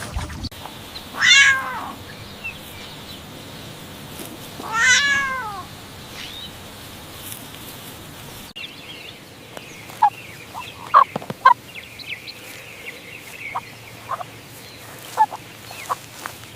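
An animal calling twice, each a drawn-out pitched call of about a second that bends up and then falls, much like a meow. After a cut, a string of short sharp calls follows, several close together about 11 seconds in.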